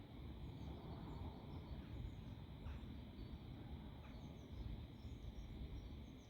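Faint outdoor ambience: wind rumbling on the microphone, a steady high insect buzz from the grass, and a few faint scattered bird chirps.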